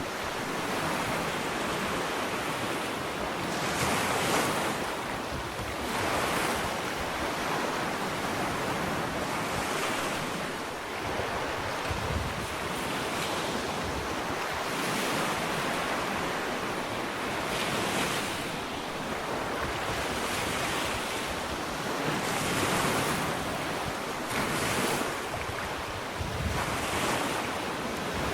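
Ocean waves breaking and washing up a sandy beach, a steady surf that swells every few seconds as each wave comes in, with wind on the microphone and a few low thumps.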